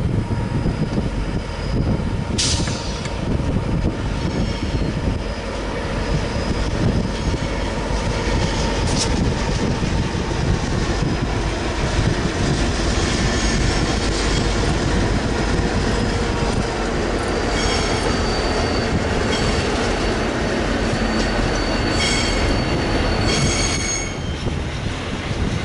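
Freight train rolling past: a steady, loud rumble of locomotives and wagons, with a couple of sharp clanks early on. From about halfway, high-pitched wheel squeal sets in and is strongest near the end as the wagons round the curve.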